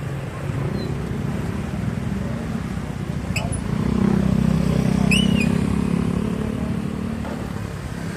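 Small vehicle engine running steadily with a fast pulsing rumble, growing louder about four seconds in, with two short high chirps near the middle.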